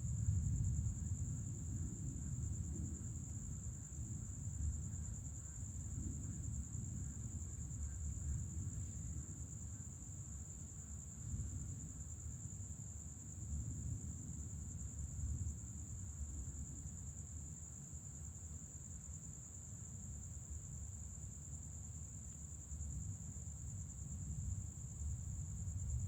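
Night insects, crickets, trilling in one steady high-pitched tone, over a low rolling rumble of distant thunder that swells and fades.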